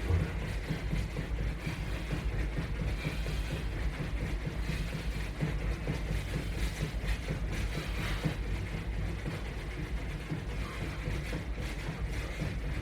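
Feet jogging in place against a resistance band, with light irregular ticking and rattling over a steady low rumble.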